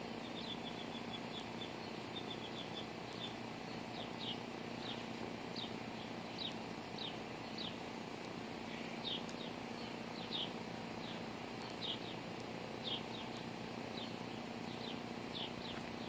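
A small bird chirping repeatedly: a quick run of short high notes at the start, then single falling chirps about every half second to a second, over steady background noise.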